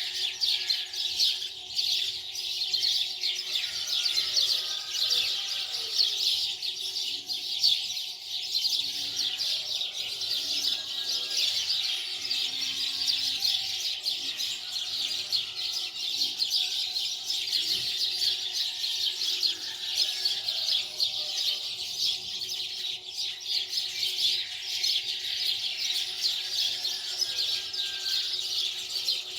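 Many birds chirping continuously, a dense chorus of quick high chirps with no pause.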